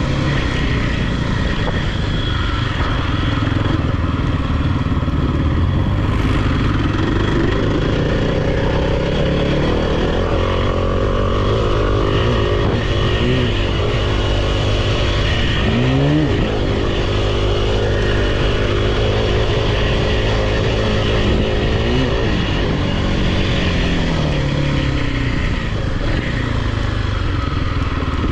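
Off-road vehicle engines running close by, revs rising and falling repeatedly, with the sharpest swoops in pitch between about 8 and 22 seconds in.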